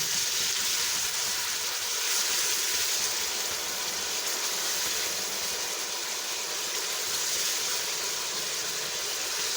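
Chopped onions frying in hot ghee, a steady sizzle with no break.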